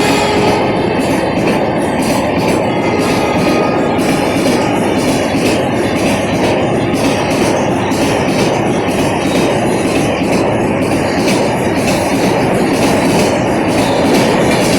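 Express passenger train hauled by a WAP7 electric locomotive passing: a loud, steady rumble with rapid wheel clatter over the rail joints. The locomotive's horn cuts off just as it begins.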